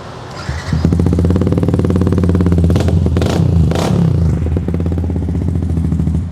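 Yamaha M-Slaz's single-cylinder engine running through an aftermarket Akrapovic exhaust. It comes in sharply just under a second in, holds steady with two short flare-ups partway through, and is too loud.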